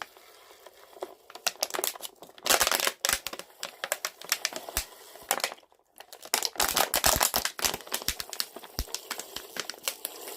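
Thin plastic bottle crackling and crinkling as it is squeezed to squirt water out, in two heavier spells of dense clicks with scattered crackles between.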